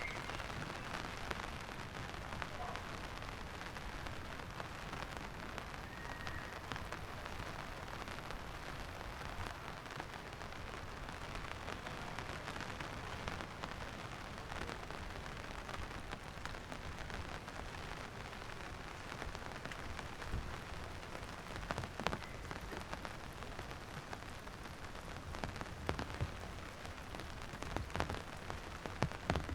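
Steady rain falling, an even hiss throughout, with a few sharp knocks in the last ten seconds.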